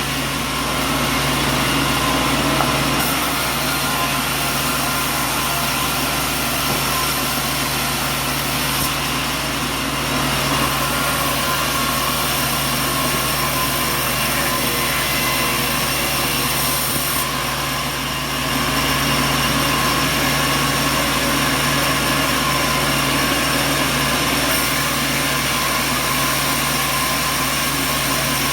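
Sawmill machinery running steadily: a continuous engine-like drone with steady tones, dipping briefly about 18 seconds in before carrying on.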